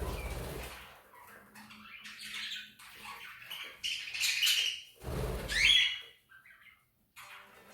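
English budgerigars chattering and squawking in short, harsh calls, loudest about four seconds in and again near five and a half seconds. Low rumbling noise comes at the start and again about five seconds in.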